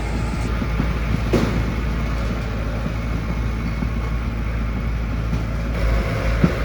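Diesel engine of heavy road-construction machinery running steadily with a low rumble, with two short knocks, one about a second and a half in and one near the end.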